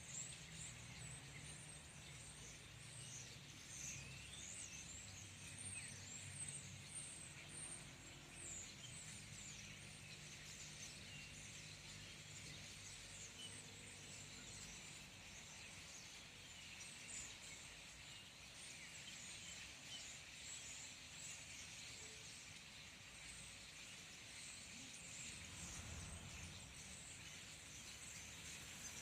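Faint, continuous chatter of many overlapping high-pitched calls from a large flock of small birds, over a low steady hum.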